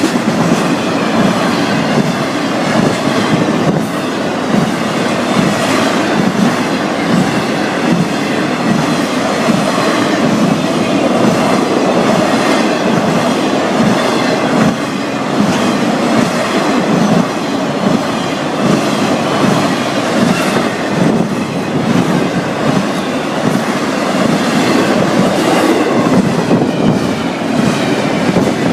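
Long Florida East Coast Railway freight train's cars rolling past: a steady rumble of steel wheels on rail with a rhythmic clickety-clack.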